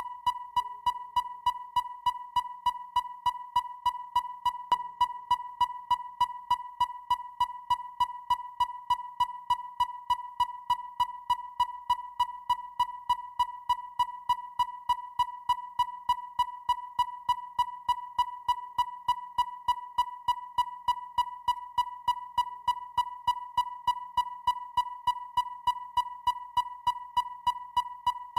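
Electronic depth finder (sonar) pinging: short beeps of one steady high tone, evenly spaced at about three a second.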